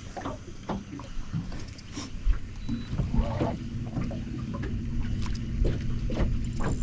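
A small boat's motor humming steadily on the water, growing stronger about three seconds in, with scattered knocks and clicks over it.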